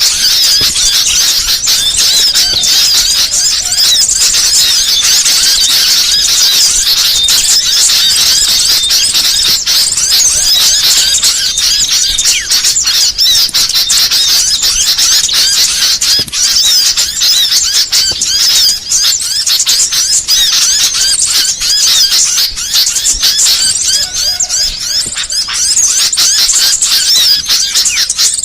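Small songbirds chattering without a break in rapid, high chirps and trills, several birds' calls overlapping in a dense mix. It is a variety 'masteran' recording of small birds' song, used to lure wild birds and to tutor caged songbirds.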